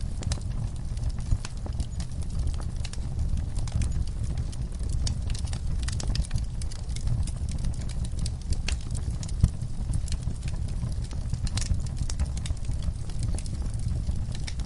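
Log fire burning: a steady low rumble of flames with frequent, irregular crackles and pops from the burning wood, one sharper pop about nine seconds in.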